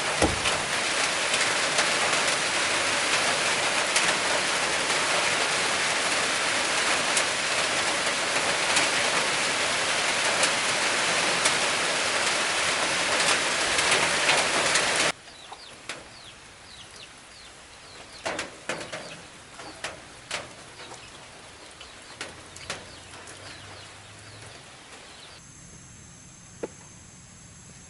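Heavy rain pouring down steadily, cutting off abruptly about halfway through to a much quieter background with scattered short, sharp sounds.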